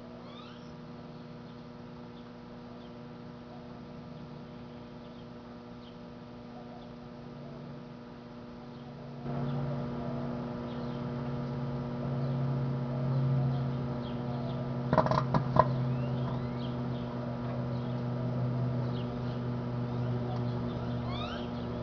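Microwave oven running with a steady electrical hum that steps up in level about nine seconds in. About fifteen seconds in comes a quick cluster of sharp snapping cracks, arcing from the piece of computer hardware being cooked inside.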